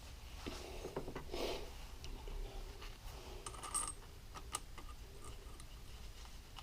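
Small metal engine parts and tools handled on a workbench: a short rustle, then several light metallic clinks with a brief ring about three and a half seconds in.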